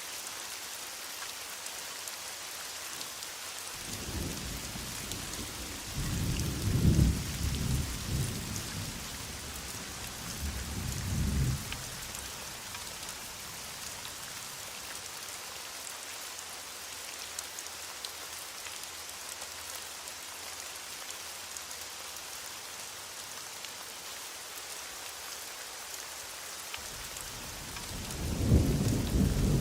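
Heavy rain falling steadily, with a roll of thunder from about four to twelve seconds in and another beginning near the end.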